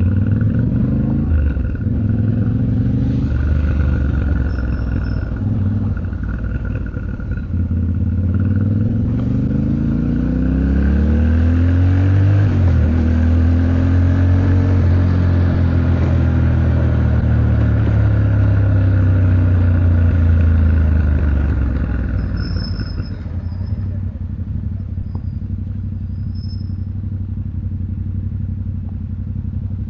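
Yamaha Ténéré 700's parallel-twin engine pulling through traffic. Its pitch climbs and falls with throttle and gear changes, holds steady under load for several seconds, then drops off and goes quieter about two-thirds of the way through as the throttle is closed.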